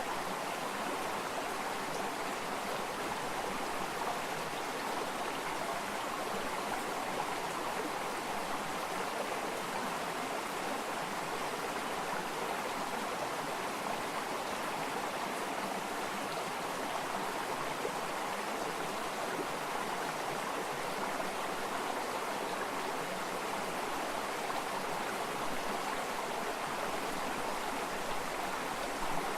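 Flowing water: a stream running steadily over rocks, an even rushing noise with no breaks.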